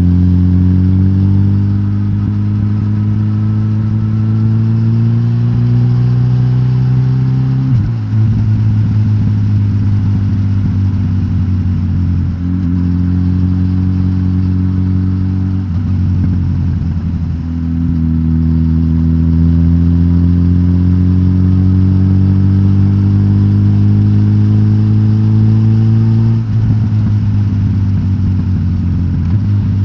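Suzuki GSX-S1000GT's K5-derived inline-four running through a de-catted stock exhaust, pulling through the gears. The engine note climbs slowly for several seconds and then drops sharply, three times, at each upshift.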